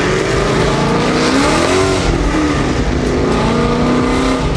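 Car engine pulling under acceleration, heard from inside the moving car. Its pitch rises and drops about two seconds in, then climbs again.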